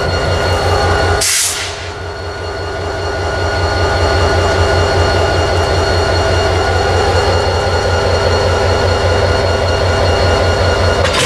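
EMD SD45 diesel locomotive running steadily with a pulsing low drone while it couples up to a car. There is a short hiss about a second in.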